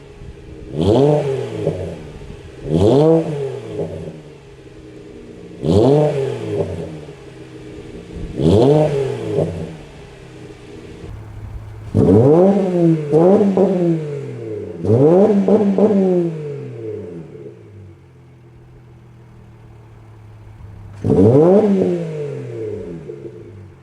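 Subaru Legacy 3.6R flat-six, exhaust through a muffler-delete axleback, free-revving in short blips from idle. Each blip rises and falls quickly in pitch and settles back to a steady idle, with a longer stretch of idling in the second half.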